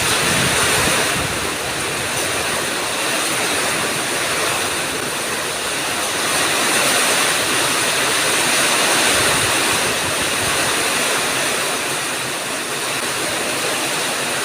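Heavy rain and strong wind in a night storm: an unbroken rush of rain with gusts of wind buffeting the microphone about a second in and again about nine seconds in.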